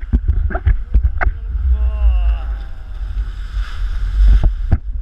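Jet ski running on open water: heavy wind buffeting and water slapping with repeated sharp knocks. A brief voice is heard about two seconds in.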